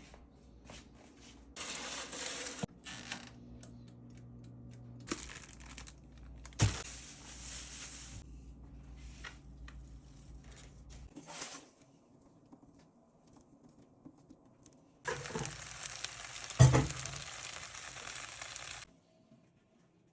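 Kitchen handling sounds: bursts of crinkling and tearing, some lasting a few seconds, with two sharp knocks, the second the loudest. A low steady hum runs underneath and stops about eleven seconds in.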